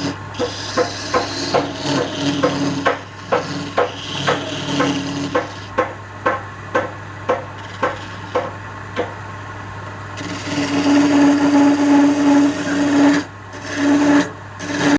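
Wood lathe running with a turning tool scraping against the spinning wood. For the first nine seconds there are sharp knocks about twice a second; from about ten seconds in the cutting becomes a louder, steadier scrape with a ringing tone, dropping out briefly once near the end.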